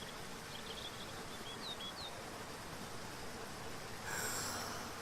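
Faint songbird chirping: a handful of short, high twitters and quick slides in the first two seconds, then a brief buzzy rasp about four seconds in, over a steady background hiss.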